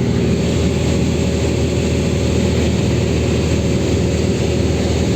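Cessna 182's six-cylinder piston engine and propeller droning steadily in flight.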